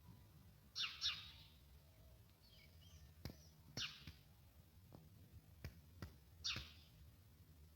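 A songbird giving short, high chirping calls, three times a couple of seconds apart, the first one doubled. A few faint sharp ticks fall between the calls.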